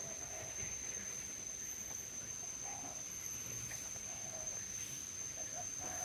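Birds calling: short, low calls repeated every second or two, over a steady high-pitched insect drone.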